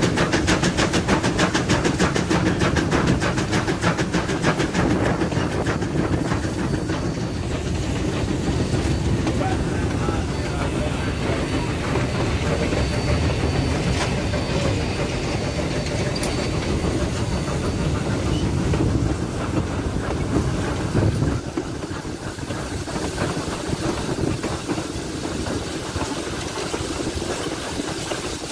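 Full-size train running along the track, heard from aboard: a steady noise of wheels on the rails that drops in level about 21 seconds in.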